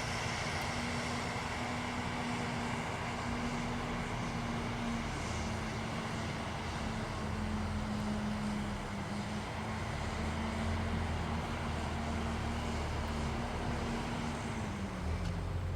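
Caterpillar bulldozer's diesel engine running steadily with a low rumble; its pitch drops near the end as the engine slows.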